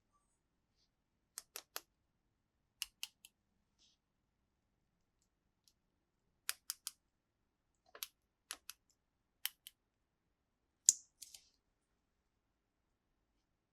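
Scissors snipping at toy packaging in quick groups of two or three sharp snips, a few seconds apart, the loudest cluster near the end.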